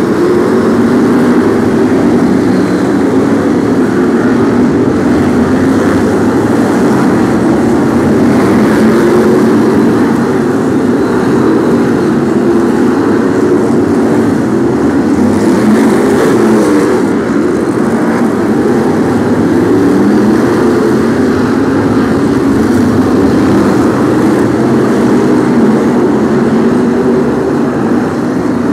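A pack of BriSCA F1 stock cars racing, their V8 engines running hard together in a loud, continuous din that rises and falls in pitch as the cars power round the oval.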